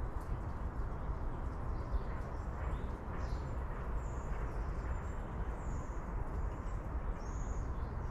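Outdoor ambience: a steady low rumble with faint, short bird chirps several times in the second half.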